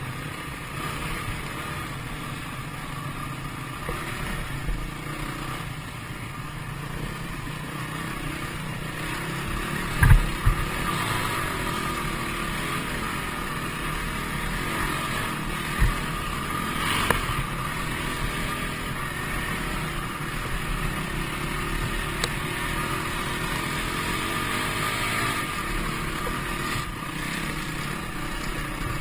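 Dirt bike engine running steadily, with a few short thumps: a loud one about ten seconds in and another about sixteen seconds in.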